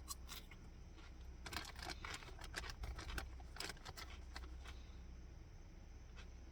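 Scattered light clicks and taps in a small enclosed space, with faint crinkling. They are most frequent in the middle of the stretch and thin out towards the end.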